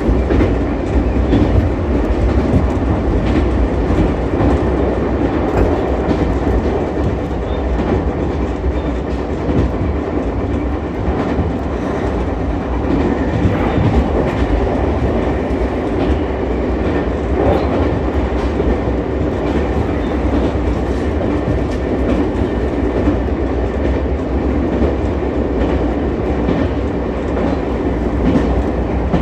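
Ichibata Electric Railway 7000-series electric train running along the line: a steady rumble of wheels on rail, with occasional rail-joint clicks.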